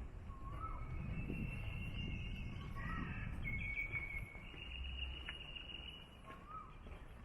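Wild birds calling: short rising-and-falling chirps recur three times, with longer high, steady whistled notes in the middle, over a low rumble.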